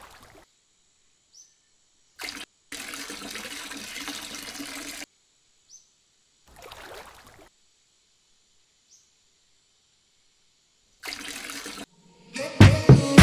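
Water trickling and splashing in a few short spells as a small plastic cup is dipped into shallow water and poured into a miniature engine's tank. Music with a steady beat starts near the end.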